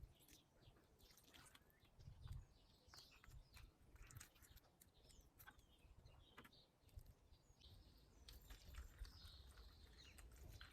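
Faint birdsong: small birds chirping in short, scattered calls and quick whistles, with a few light knocks and a low rumble underneath.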